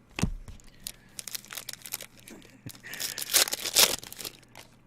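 Crinkling and tearing of a trading-card pack's foil wrapper, in short crackles with a louder burst about three seconds in.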